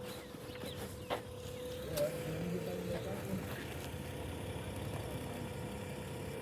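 A vehicle engine idling steadily: a low rumble with a thin, even whine over it and a couple of soft clicks.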